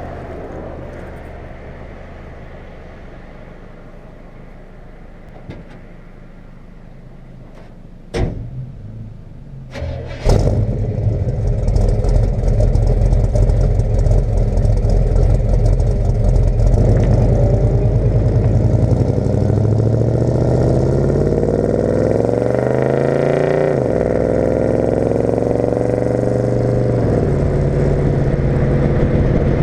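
Big-block V8 of a 1972 Chevrolet C20 pickup running through a glasspack exhaust. It is faint at first; after a sharp knock it suddenly becomes loud about a third of the way in. It then rises in pitch under acceleration, drops back, rises again and settles into a steady drone near the end.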